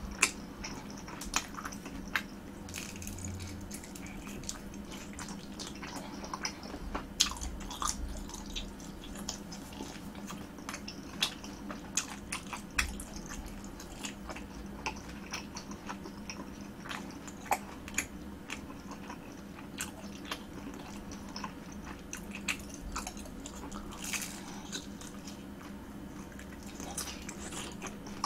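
Close-miked eating: a person biting and chewing skewered fried snacks, with irregular sharp mouth clicks scattered throughout.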